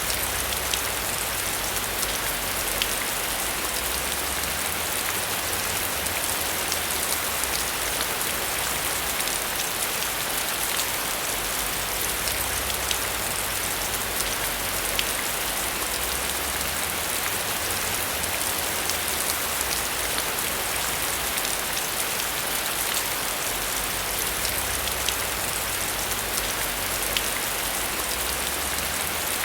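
Heavy rain falling steadily, a constant hiss with many small drops ticking on a surface, over a low rumble.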